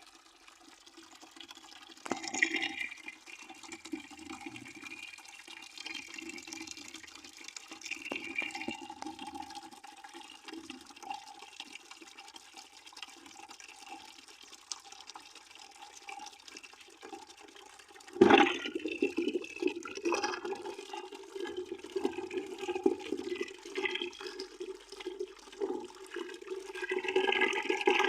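Water running from a stream into a plastic bucket, splashing and gurgling with a hollow ring from the bucket. It surges louder suddenly about two seconds in and again, more strongly, at about eighteen seconds, and swells toward the end.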